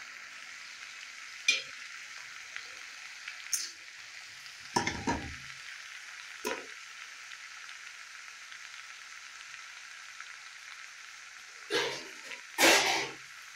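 Bottle gourd leaves, potato and brinjal frying in mustard oil in a metal kadai, a steady sizzle, broken by several short clinks and knocks of a spatula and plate against the pan and stove; the loudest clatters come about five seconds in and near the end.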